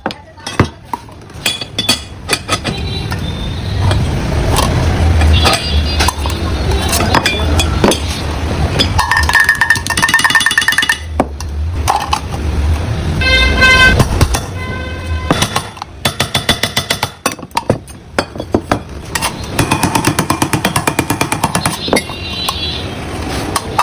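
Road traffic: engines running, with vehicle horns sounding twice near the middle, and many sharp taps or clicks throughout.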